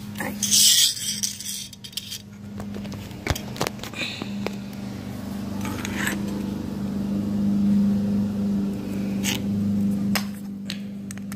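Scattered small metal clicks, clinks and scrapes of screws and hand tools being handled while refitting a dishwasher door spring, over a steady low hum.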